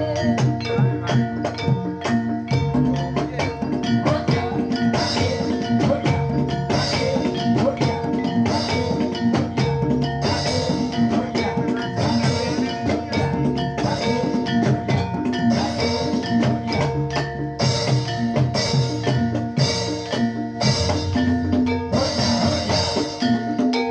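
Live Javanese gamelan-style ensemble playing jathilan dance accompaniment: struck metal keys and gongs ringing in a steady repeating pattern over hand drumming.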